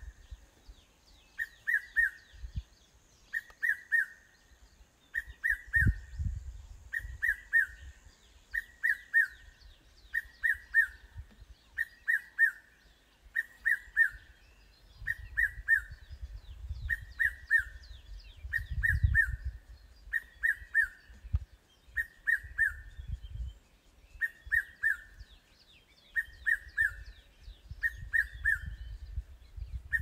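A bird calling over and over, a short phrase of two or three quick notes repeated every second or two, with low rumbling underneath.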